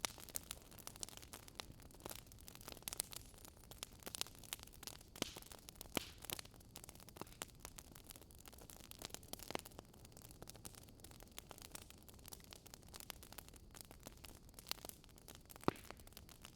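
Wood fire crackling: irregular small pops and snaps over a soft hiss.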